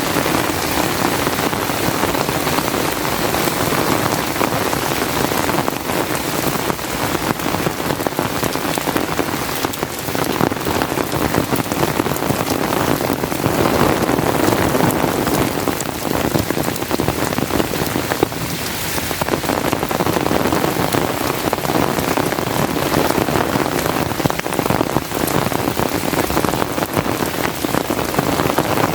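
Heavy rain falling steadily, a dense patter of drops, swelling a little about halfway through.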